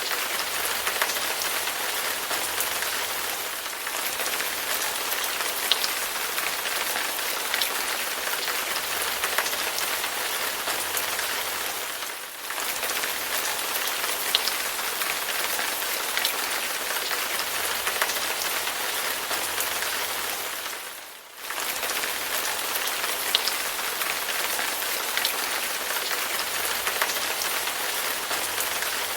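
Steady rain falling, an even hiss with scattered drop ticks; it fades briefly three times, most deeply a little past the two-thirds mark.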